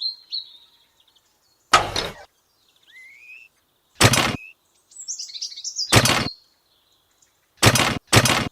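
A series of separate sharp knocks, about two seconds apart at first and then two close together near the end, with small birds chirping in between.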